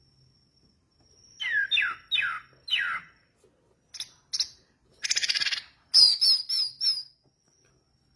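Orange-headed thrush (anis merah) singing a varied phrase. It opens with four loud downslurred whistles, gives two short high notes, then a buzzy rattle, and ends with a quick run of high chattering notes.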